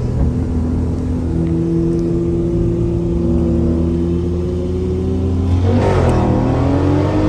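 Performance car engine running hard under acceleration: a steady engine note that sags slightly in pitch, a short break about six seconds in, then the pitch climbing again.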